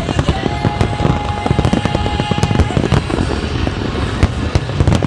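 Aerial fireworks display: many shells bursting in quick, overlapping succession with crackling and a continuous low rumble, with music playing underneath.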